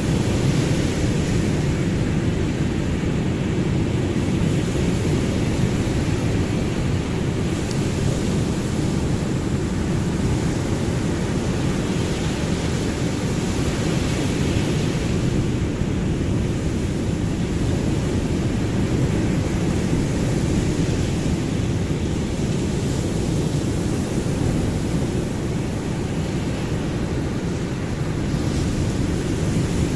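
Ocean surf: a steady, deep rush of waves with only slight rises and falls in level.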